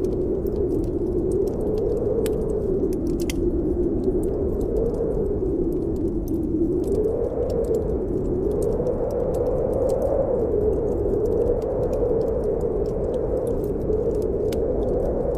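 Snowstorm wind blowing steadily, its pitch slowly rising and falling, with a wood fire in a fireplace crackling in frequent small, sharp pops over it.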